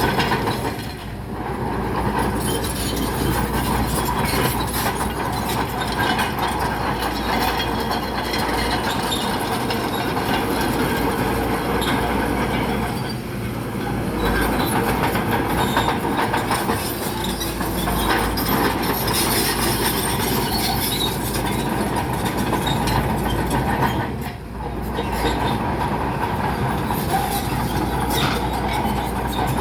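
Crawler bulldozer at work: its diesel engine running under load with the steel tracks clanking and rattling, easing off briefly three times.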